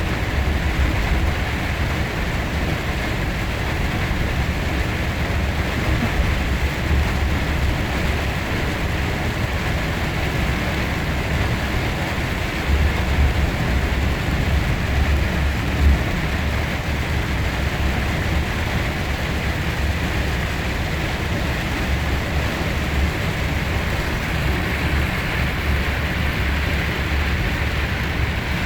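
Steady noise of a vehicle on the move, with a deep rumble that swells and fades at times.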